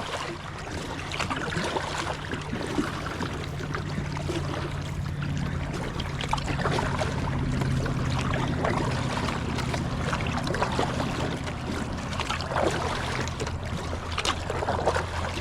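Kayak paddle strokes splashing and water rushing along the hull in a strong river current. A steady low hum runs underneath.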